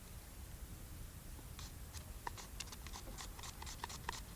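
Cucumber being sliced on a handheld vegetable slicer: a run of faint, quick, crisp clicks at an uneven pace, starting about a second and a half in.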